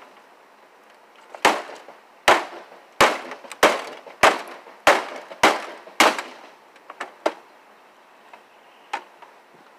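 A flatscreen TV being broken apart: about eight sharp cracks or knocks in a steady run, roughly one every two-thirds of a second, then a few lighter clicks near the end.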